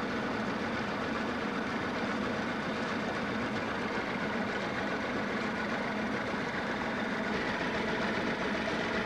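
Trimaran's engine running steadily while the boat motors along, with a constant rush of water and wind.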